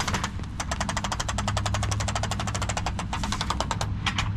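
A small machine running with a rapid, even clatter over a steady low hum, cutting off suddenly at the end.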